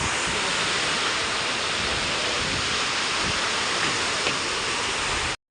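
Heavy monsoon rain pouring down in a steady, dense hiss. The sound cuts out for a split second near the end.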